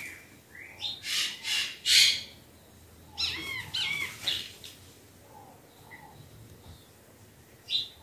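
Birds calling: a few loud, harsh calls about a second in, then a quick run of looping chirps, and a single short chirp near the end.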